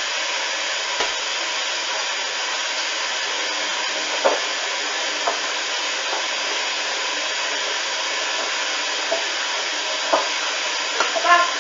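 Hoover washing machine drum spinning during the intermediate spin: a steady whooshing machine hum, with a few light knocks from the machine now and then and several close together near the end.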